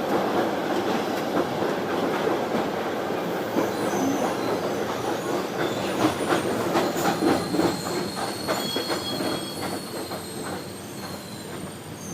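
Moving passenger train running on the track: a steady rumble of the coaches, with a run of quick clicks from the wheels over rail joints starting about four seconds in and a faint thin squeal. The sound fades a little near the end.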